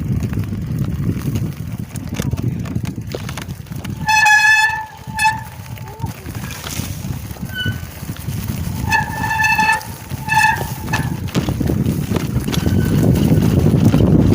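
A horn toots twice in a long-short pattern, about four seconds in and again about nine seconds in. A steady low rushing noise, like wind or riding noise, runs underneath.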